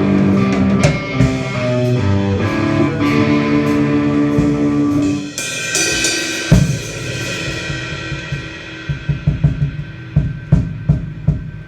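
Live electric guitar and drum kit playing together. About five seconds in the guitar notes stop and a cymbal crash rings down, followed by scattered drum hits.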